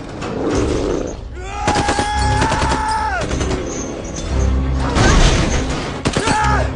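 Action-film soundtrack: music under two spells of rapid gunfire, each with a held high tone that drops away at its end.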